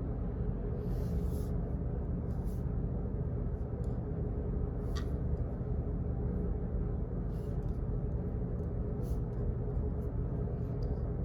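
Office background noise: a steady low rumbling hum with a faint steady tone, and light clicks every second or two at irregular spacing.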